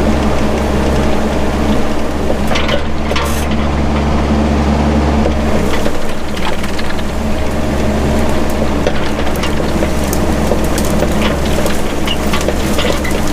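Mini excavator engine running steadily, with scattered cracks and snaps of brush and small wood being broken as underbrush is cleared.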